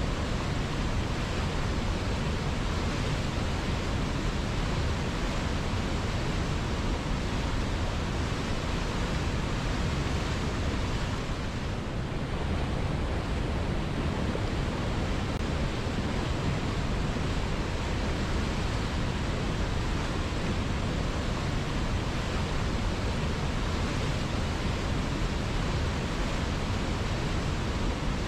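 River water flowing, a steady, even rush of moving water with no breaks.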